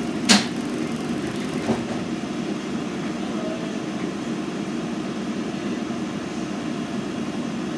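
A Scania N113CRB bus running with a steady low drone. A sharp click or knock comes about a third of a second in, and a fainter one just under two seconds in.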